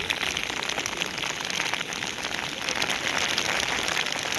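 Rain falling, with many individual drops pattering close to the microphone as a steady dense crackle.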